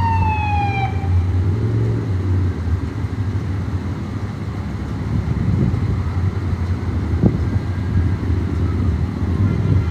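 An emergency vehicle siren winding down with a falling pitch, dying out about a second in. Then a steady low vehicle engine rumble and street traffic noise, with one sharp click about seven seconds in.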